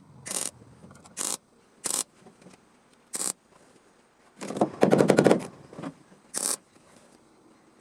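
Welder laying short tack welds on sheet-metal car body panel: a string of brief crackling bursts at irregular gaps, with one longer, denser crackling weld about five seconds in.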